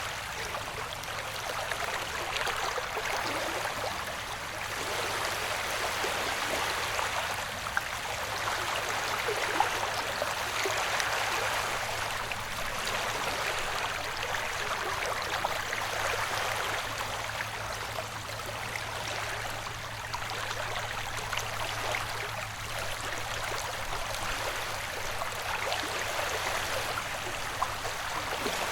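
Recorded ocean-wave ambience: a steady wash of water that swells and eases every few seconds, over a faint steady low hum.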